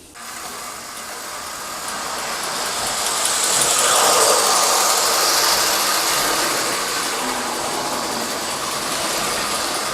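Model train running on its track: a steady rushing noise of motor and wheels, growing louder over the first few seconds and then holding even.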